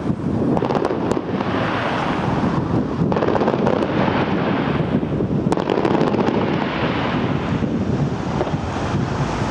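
Strong wind buffeting the microphone in heavy low rushing gusts that swell and ease every couple of seconds, with a few faint sharp cracks of fireworks.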